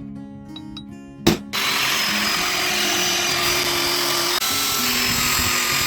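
A handheld power tool starts about a second and a half in and runs steadily and loudly, working the wooden hatchet handle and wedge. Just before it starts there is a single sharp knock, and an acoustic guitar track plays underneath.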